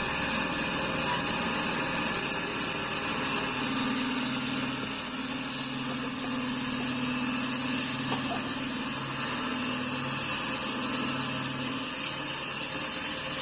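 Sawmill running: a steady, loud high hiss over a low droning motor tone that comes in a few seconds in.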